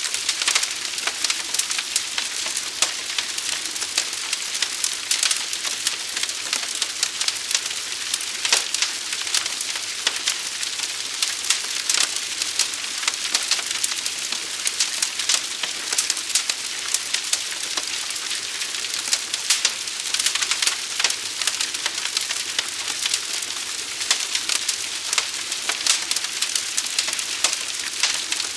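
Burning wood in a fire, crackling and popping: many sharp pops scattered over a steady hiss.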